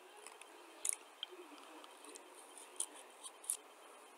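Someone chewing dry clay clumps close to the microphone: soft mouth sounds broken by about four sharp, crisp crunching clicks.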